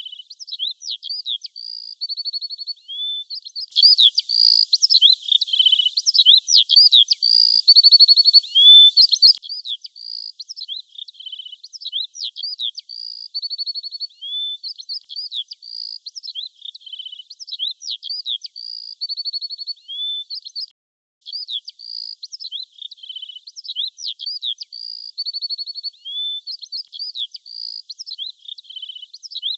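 Songbird singing: quick high chirps, slurred whistles and short trills, the same phrase repeating about every five seconds. It is much louder for about five seconds near the start.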